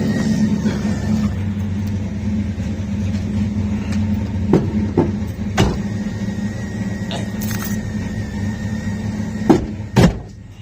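A car engine running steadily, with a few sharp knocks or clicks partway through. Near the end come two loud knocks, and the engine sound drops away.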